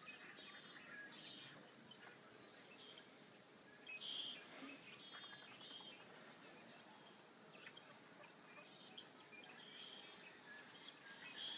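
Faint bird chirps and short calls from a bird video playing through a tablet's small speaker, scattered throughout, loudest about four seconds in and near the end.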